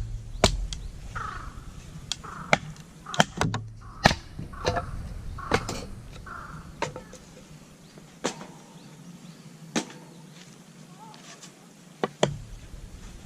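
Irregular sharp knocks and clacks, thickest in the first half and with a quick double knock near the end, among a few short bird calls.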